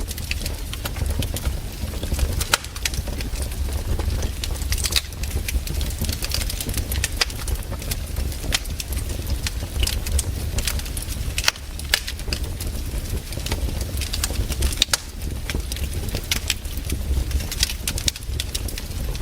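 Wood campfire crackling and popping: sharp irregular snaps over a steady low rumble.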